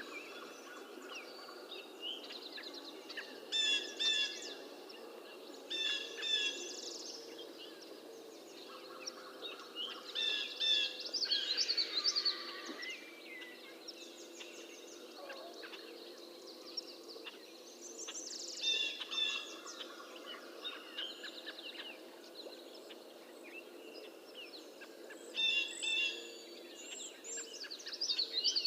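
Several songbirds singing together, with a loud phrase of short repeated notes returning every few seconds over fainter calls from other birds.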